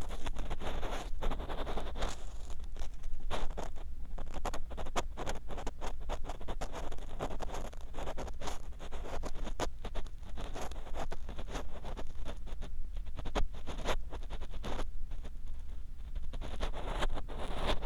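Ear pick scraping and scratching inside the silicone ear of a 3Dio binaural microphone: a dense, irregular run of close scratches and clicks over a low steady hum.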